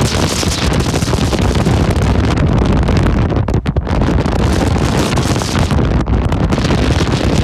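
Storm-force wind buffeting the microphone aboard a ship in heavy weather: a loud, continuous rush with deep rumble, briefly dropping out twice.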